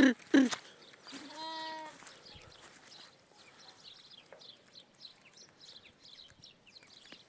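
Sheep bleating: a quick run of short loud calls that stops about half a second in, then one held bleat just after the first second. Faint high chirps follow.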